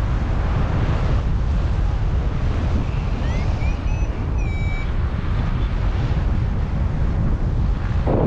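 Strong wind buffeting the microphone in flight, a steady low rumble. About three to five seconds in, a few short rising electronic beeps sound, typical of a paragliding variometer signalling climb.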